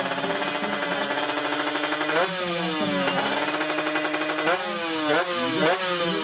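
Racing motorcycle engines running at a fast idle, with the throttle blipped several times: the pitch jumps up sharply and falls back, about four times in the second half.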